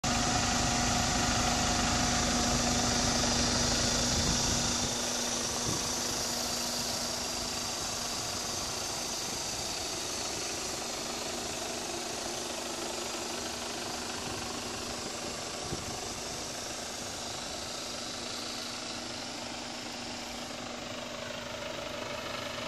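2006 Hyundai Tucson's diesel engine idling steadily, with a heavier low rumble in the first few seconds.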